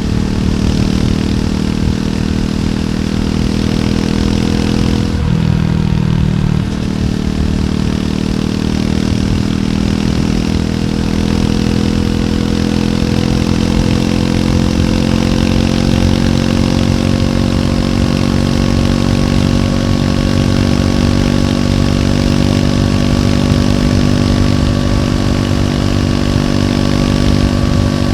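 Triumph Scrambler 400X's single-cylinder engine through its stock exhaust, running steadily under way. About five seconds in the note breaks briefly for a second or so, then the pitch climbs slowly as the bike gathers speed.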